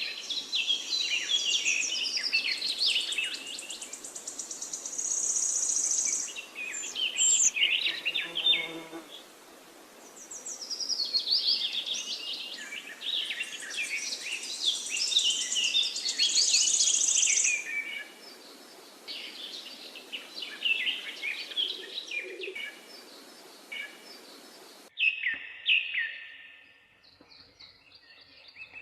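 Wild birds singing: overlapping songs, chirps and fast high trills in bursts of a few seconds, over a steady hiss. The hiss cuts out suddenly near the end, leaving quieter chirps.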